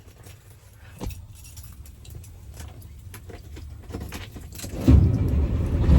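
Keys jangling with small clicks in the cab. About five seconds in, the Volvo dump truck's diesel engine starts with a sudden loud low rumble and keeps running.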